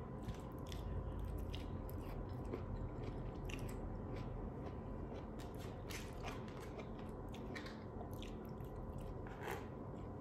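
A person chewing and biting food close to the microphone, with irregular small crunches and clicks.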